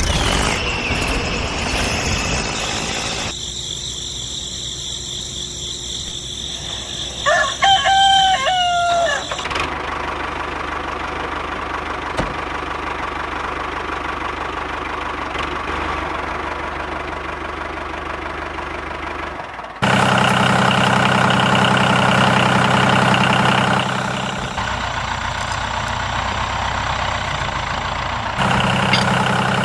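A rooster crows once, about seven seconds in, over a steady mechanical hum that changes abruptly several times.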